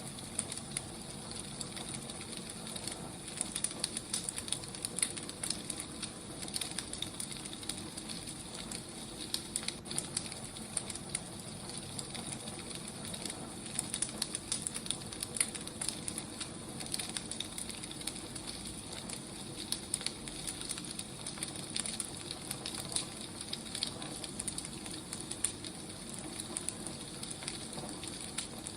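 Wood fire burning: a steady hiss with many small, irregular crackles and pops.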